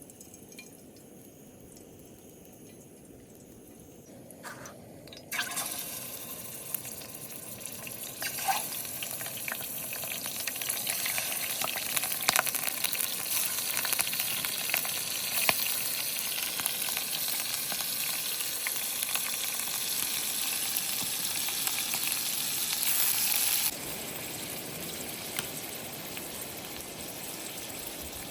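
Flowing stream water: a faint hiss at first, then about five seconds in a louder steady rush of water with crackly splashing, which cuts down abruptly near the end to a quieter trickle.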